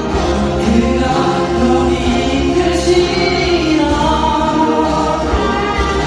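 A man singing a slow Korean Christian (CCM) ballad over instrumental accompaniment with a steady bass.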